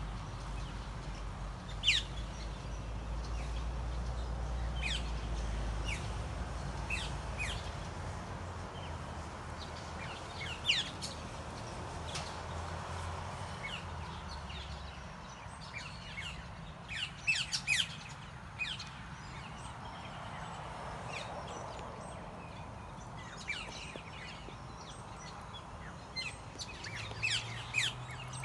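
Birds calling outdoors: short, sharp high chirps that sweep steeply downward, coming in scattered bursts of one to several at a time, over a low steady rumble that fades after the first half.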